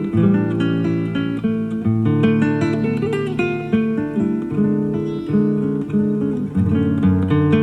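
Classical guitar played live: a continuous stream of plucked notes and chords. It comes from an FM radio broadcast recorded onto cassette tape, so it sounds dull with little top end.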